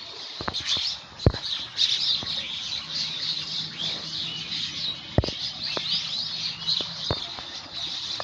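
Many small birds chirping and twittering continuously, with a few sharp knocks or clicks among them, the loudest about a second in and about five seconds in.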